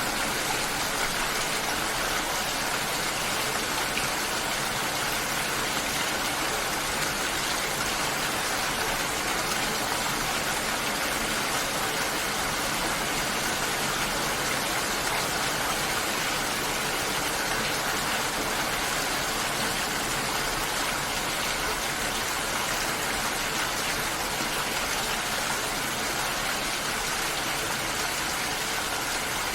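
Steady, even hiss of water, like heavy rain, unchanging throughout.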